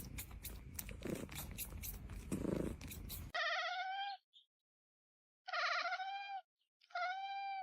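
A cat meows three times, each call under a second long and held at a steady pitch. The meows follow a few seconds of soft noise with clicks.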